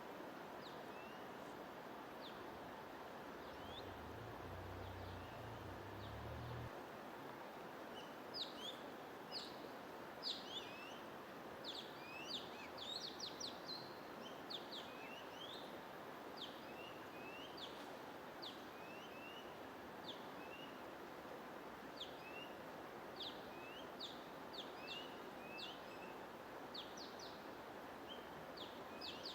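Songbirds chirping in quick, high, short notes over a steady hiss of white noise; the chirping gets busier after about eight seconds.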